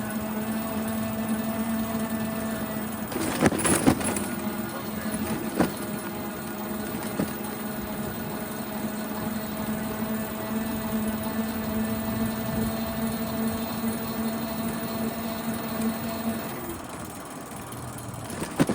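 Bike in motion making a steady whirring whine: the annoying noise from the bike that needed upkeep. A few sharp clicks or rattles come about three and a half seconds in, and the whine dies away near the end.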